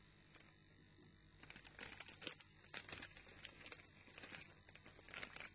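Faint, irregular crackling and clicking, starting about a second and a half in, from someone eating a hard-topped sponge biscuit close to the microphone.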